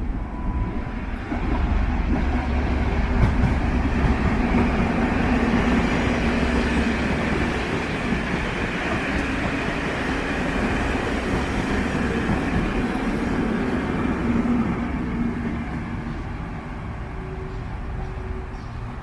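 Network Rail's New Measurement Train, a High Speed Train with Class 43 diesel power cars, passing close by: engine drone over the rumble of wheels on rail. It swells about a second and a half in, holds steady while the train goes by, and eases off near the end.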